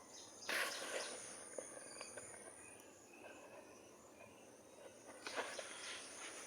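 Faint rustling and scattered soft clicks, with a thin steady high-pitched tone underneath; the rustling is strongest about half a second in and again about five seconds in.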